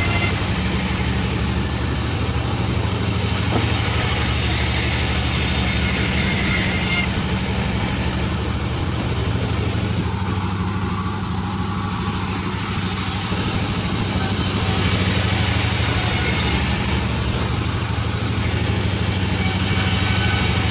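Panda36 sawmill running with a steady machine drone, its blade sawing bayur wood. A higher rasp of the cut swells and fades three times, each lasting a few seconds.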